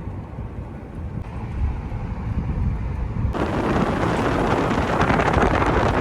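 Wind buffeting the microphone over a low rumble, turning into a much louder, hissing rush about halfway through.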